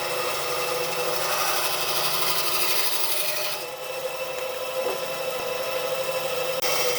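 Power tool working wood: a steady motor hum under rasping, rubbing noise. The sound changes abruptly about three and a half seconds in and again near the end.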